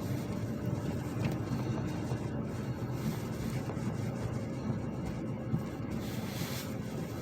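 Car running: a steady low rumble of engine and road noise.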